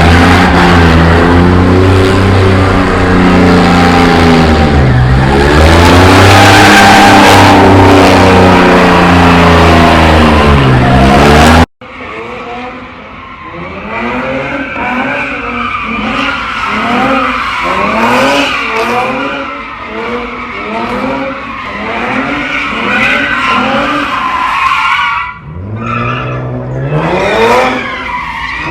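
Car engines held at high revs with tyre noise as cars do burnouts and donuts. About twelve seconds in the sound cuts abruptly to a quieter car engine. Its pitch swings up again and again, about twice a second, as the throttle is blipped while it spins. Near the end an engine accelerates with a rising pitch.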